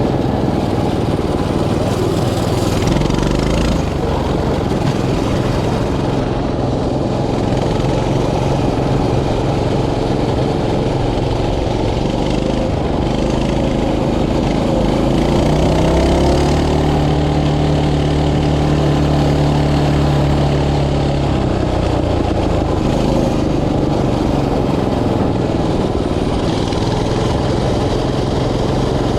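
Mini bike's small engine running while being ridden, its note shifting with the throttle and holding steadier and louder for several seconds around the middle.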